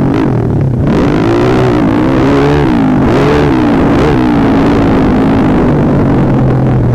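A modified Xtreme Pit Pro pit bike's single-cylinder four-stroke engine, running loud through an FMF Power Core 4 exhaust. It revs up and down several times in quick succession, then holds a steadier pitch for the last few seconds.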